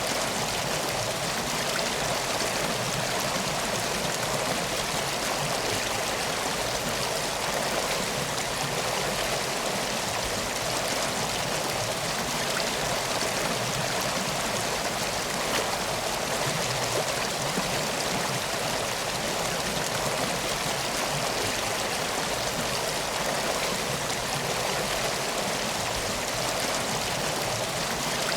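Steady flowing water of a river or stream, an even rushing sound with no let-up.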